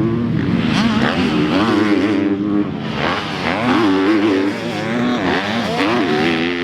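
Motocross dirt bike engines revving on the track, their pitch rising and falling over and over as the riders work the throttle, with several engines overlapping.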